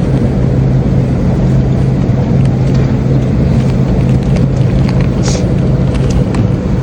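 Steady low rumble and hum of an airliner during boarding, the drone of its air-conditioning and ground power. A brief hiss comes about five seconds in.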